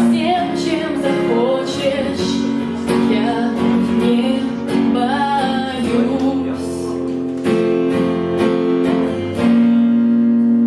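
Acoustic guitar strummed in a live song's closing bars, with a woman's singing voice over it, ending on a held, ringing chord near the end.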